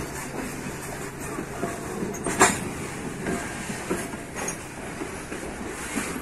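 Loaded freight wagons of a long train rolling past, the wheels making irregular clicks and knocks over the rails with a steady rumble, and one sharp, loud metallic knock about two and a half seconds in.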